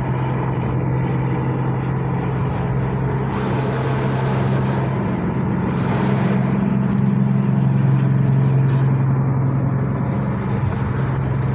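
Steady low engine hum with road noise, growing a little louder through the middle and easing off near the end.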